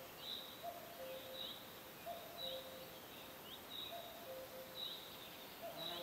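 Forest ambience of birds chirping: short high calls with a quick downward flick, repeating every half second to a second, over a lower note that recurs about once a second and a steady hiss.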